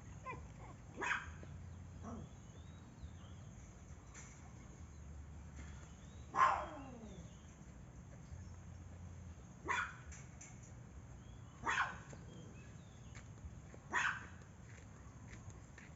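A dog barking in single, spaced barks, about six in all. The loudest, about six seconds in, trails off falling in pitch.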